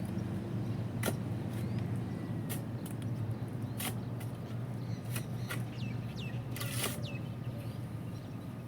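Steady low hum of an idling engine, with scattered sharp clicks and a few short, high, falling chirps.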